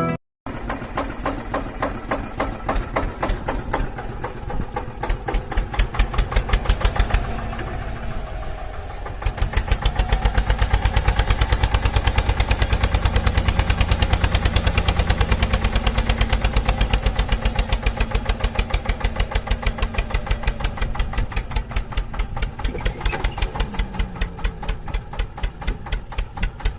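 Engine running, a rapid, even beat of firing pulses with a heavy low thump. It grows louder about nine seconds in and eases off a little near the end.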